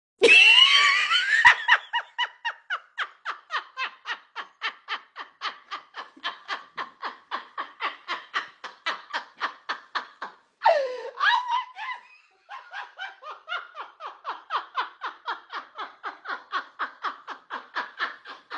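A person laughing hard and without a break, a rapid run of about four 'ha's a second, opening with a shrill shriek and interrupted once by a higher cry about ten and a half seconds in before the laughter resumes.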